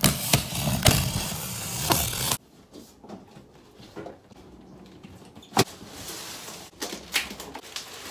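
Cardboard shipping box being opened and its packing handled: a loud rush of tearing and rustling for a couple of seconds, then quieter rustling and clicks with one sharp knock.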